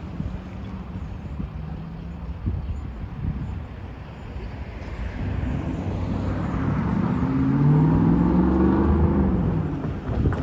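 City transit bus engine accelerating past over steady traffic rumble. Its pitch rises from about five seconds in and is loudest around eight to nine seconds, then begins to ease.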